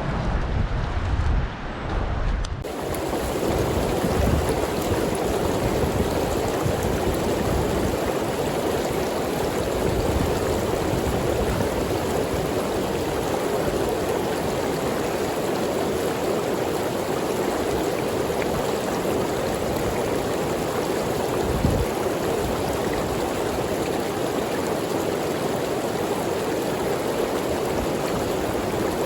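A mountain stream rushing steadily. For the first couple of seconds low wind buffeting on the microphone covers it, then it changes suddenly to the clear, even rush of the water.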